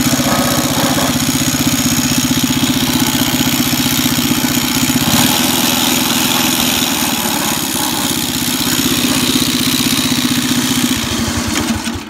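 Mini bike's small single-cylinder engine running at idle with an even firing rhythm, its torque converter still engaged and driving the wheel. Near the end the strokes slow and the engine stops.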